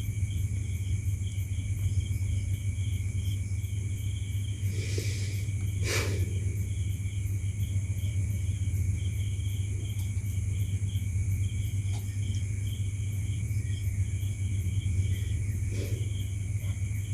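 Background room tone: a steady low electrical hum with hiss and a faint, rapidly pulsing high chirp, broken by a few soft knocks.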